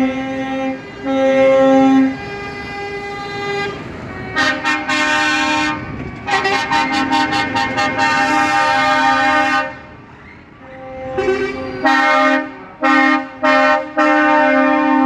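Truck air horns blowing in a series of blasts, several horns sounding together in chords. The blasts are long in the middle, then a pause, then a run of short toots and a held blast near the end.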